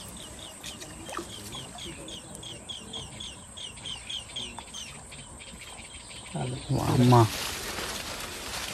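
A bird calling a short falling note over and over, about three times a second, for some six seconds. Near the end comes a brief, louder burst of voice.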